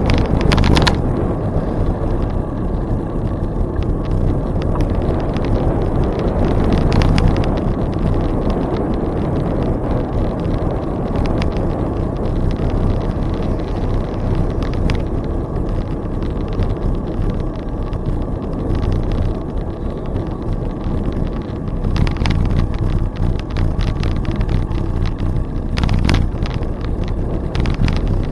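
Riding noise from a moving bicycle: wind rushing over the microphone and the rumble of tyres on the trail, with scattered small rattles and a few louder gusts or bumps.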